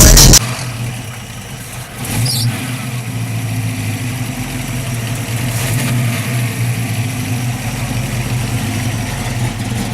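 Car engine with an aftermarket cam idling with a steady, uneven beat, blipped up briefly about two seconds in before settling back to idle.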